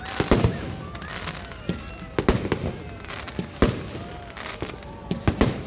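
Aerial fireworks bursting in an irregular series of sharp bangs, several close together and others a second or more apart.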